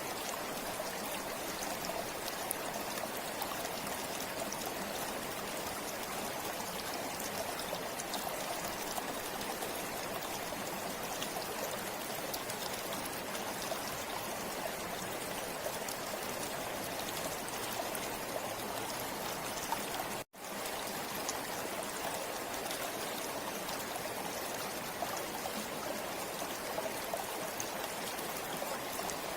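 River water flowing steadily over its bed, an even rushing sound; it cuts out for an instant about two-thirds of the way through.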